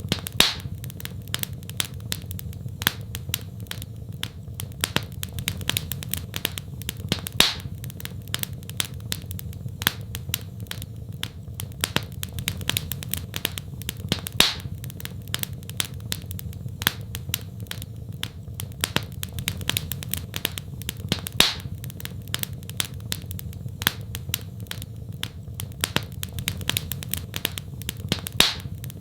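Wood fire crackling with a steady stream of small clicks and a louder pop about every seven seconds, over a steady low rumble.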